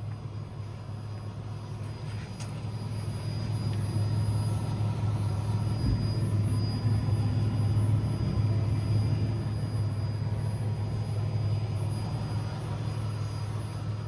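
Ford Ranger's 4.0-litre V6 engine running steadily at a constant pitch, a low hum that grows louder a few seconds in and eases off again near the end.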